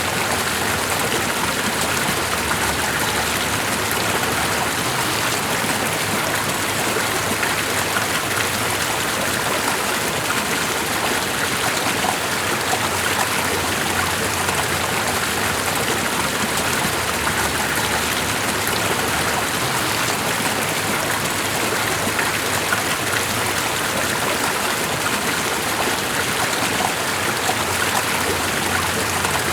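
Steady running water, an even continuous rushing hiss that doesn't change.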